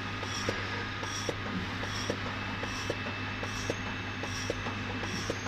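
Semi-automatic blood collection tube dosing and drying machine running: a steady hum and hiss of air with regular ticking about three times a second as it doses liquid into the tubes.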